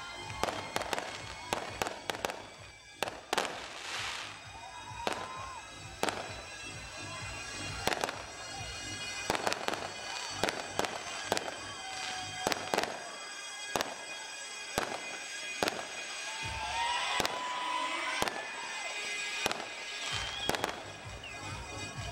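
Aerial fireworks shells bursting, dozens of sharp bangs at irregular intervals, some in quick clusters. Steady background music runs underneath.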